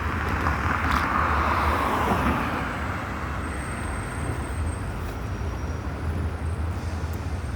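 KMB bus engine running as the bus pulls away from a stop, a steady low rumble under a rush of noise that swells and fades over the first couple of seconds.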